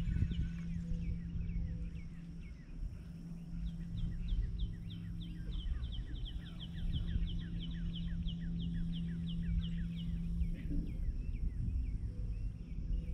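A bird calling in a long, rapid series of short, falling chirps that fades out about ten seconds in, over a steady low hum and low wind rumble.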